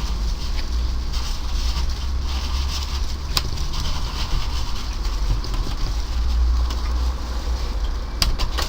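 Steady low rumbling noise with a hiss above it, broken by a few sharp clicks, one a little after three seconds in and a couple near the end.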